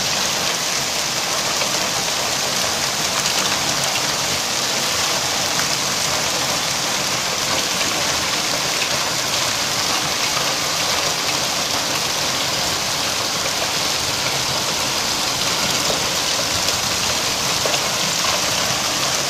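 Hailstorm downpour: hail and rain pelting down in a dense, steady hiss of countless small impacts.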